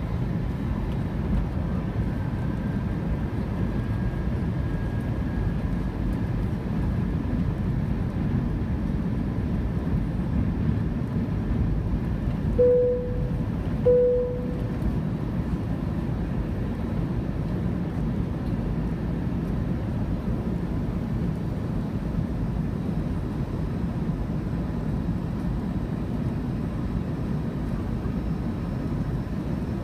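Steady rumble of engines and airflow inside an Airbus A320's passenger cabin, with a faint steady whine over it. About 13 seconds in, two short chime tones ring a little over a second apart.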